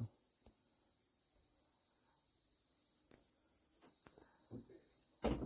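Crickets chirping steadily in a high, even trill, with a few faint clicks and a louder bump just before the end.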